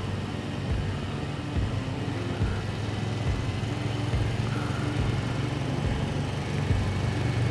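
Motorcycle engine running steadily at cruising speed, with a steady rush of wind and road noise.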